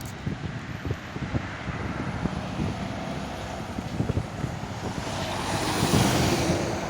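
Wind buffeting the microphone over a low vehicle engine rumble, with a rushing swell that grows louder about five seconds in.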